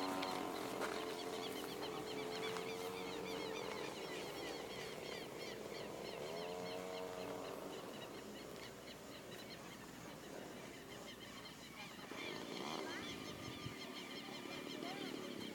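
Model airplane engine droning faintly overhead, its pitch rising and falling as the plane passes and turns during its landing approach.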